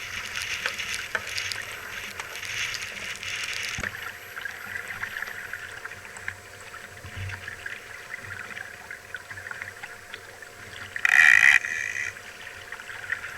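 Water rushing and splashing along the hull of a small sailing dinghy in choppy water and strong wind, louder in the first few seconds. About eleven seconds in comes a brief, much louder burst of noise.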